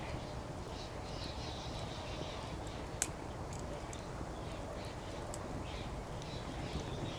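Wood fire crackling, with scattered small pops and one sharp loud pop about three seconds in, over a steady low background rumble.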